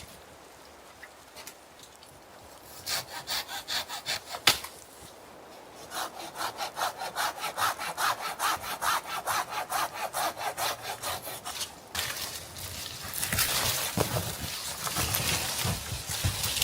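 Hand saw cutting wood in quick, even back-and-forth strokes, about four a second, with a sharp knock about four and a half seconds in. Near the end the strokes run together into a denser rasp.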